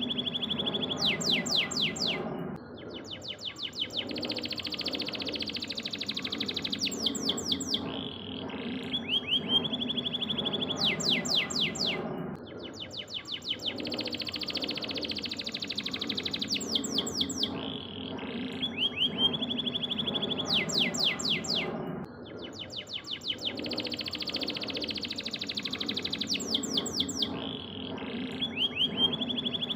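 Yellow domestic canary singing a long song of rapid trills and repeated sweeping notes, played as a looped tutor recording: the same sequence comes round about every ten seconds.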